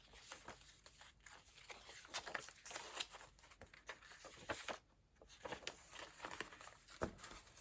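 Paper pages of a handmade junk journal rustling and crinkling as they are handled and turned, with many small scattered clicks and a brief lull about five seconds in.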